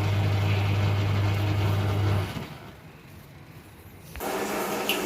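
Onida washing machine wash motor running with a steady electric hum, cutting out about two seconds in and starting again about four seconds in, as the wash timer switches the supply from one winding to the other to reverse the motor's direction. The motor is running properly after being rewired.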